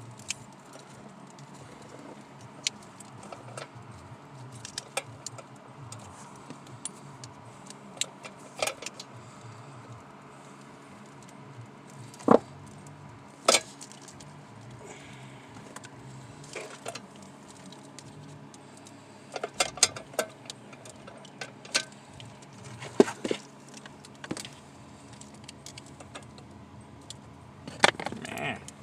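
Scattered clicks, taps and rattles of hands working a plastic wiring-harness connector loose under a car's dashboard, with a few louder knocks about twelve and thirteen seconds in and again near twenty and twenty-three seconds, over a faint steady low hum.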